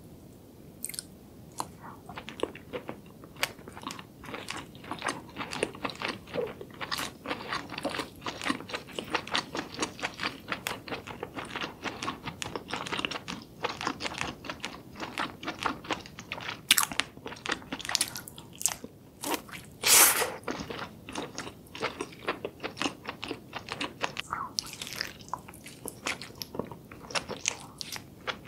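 A person chewing and biting sauce-coated seafood close to the microphone: a steady run of wet, sharp mouth clicks, with a couple of louder bites near the middle.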